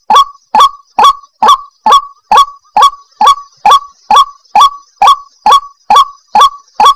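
White-breasted waterhen (ruak-ruak) giving its call as a loud, fast, even series of short notes, about two and a half a second, each one sweeping quickly up in pitch. A faint steady high-pitched whine sits behind.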